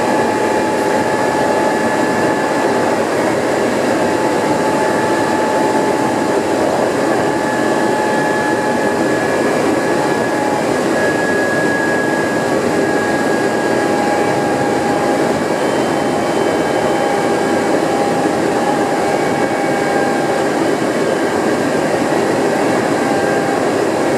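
Hankyu Kyoto Line electric train running along the track, heard from inside at the front: a steady, loud rumble of wheels on rail with faint thin whines above it.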